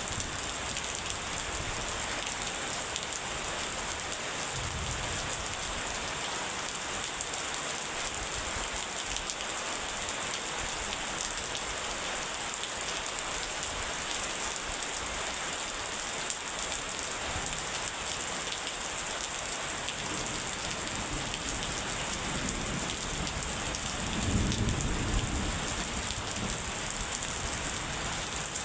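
Steady rain pattering, with a low rumble of distant thunder swelling briefly near the end.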